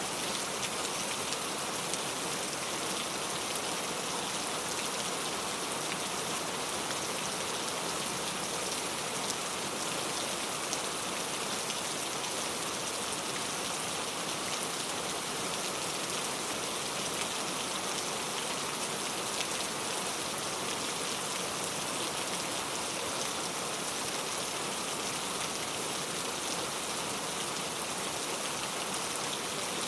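Steady rain falling, an even hiss of many drops pattering on surfaces, with no let-up or change.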